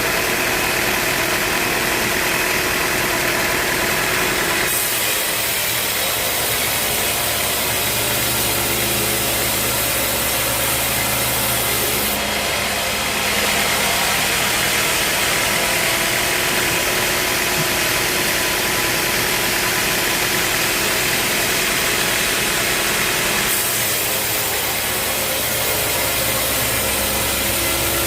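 Sawmill saw running and cutting through a teak log, a steady machine-driven sawing noise. Its tone shifts abruptly a few times.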